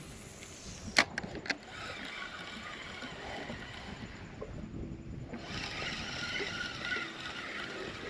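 Three sharp knocks in quick succession about a second in, then, from about five seconds in, a steady rushing noise around a small fishing boat.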